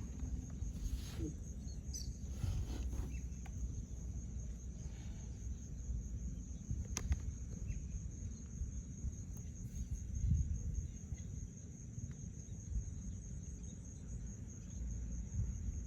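Steady high-pitched insect buzz, like crickets, over a low rumble, with a single sharp click about seven seconds in.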